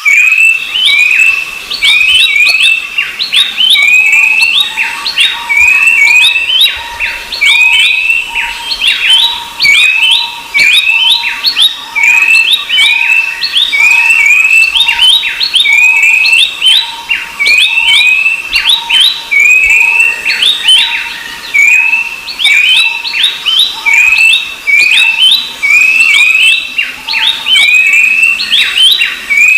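Babblers calling: a dense, continuous run of short, sharp chirps, several a second and overlapping, each with a quick downward sweep.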